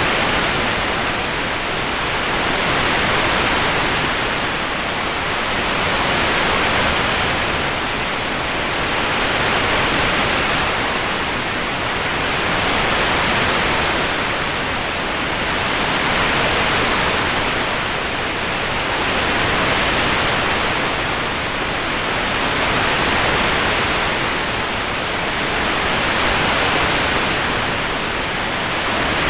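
Steady rain ambience, an even hiss that swells and fades gently about every three and a half seconds.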